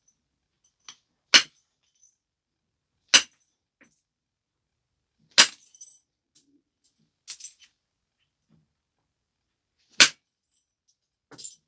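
Stone biface being flaked during flintknapping: about six sharp, ringing clicks as flakes come off the edge, a couple of seconds apart, with a few fainter ticks between them.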